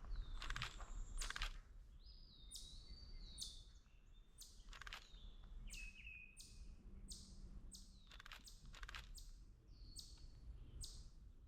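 Wild songbirds chirping: many short high chirps and a few whistled notes that drop in pitch, scattered irregularly, over a faint low rumble.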